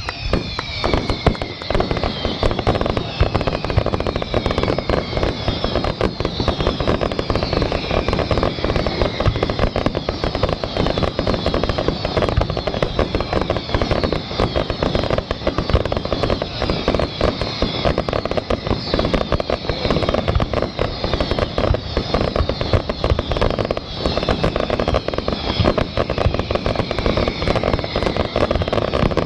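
Fireworks display: a continuous barrage of bangs and crackling, overlaid with many whistles falling in pitch.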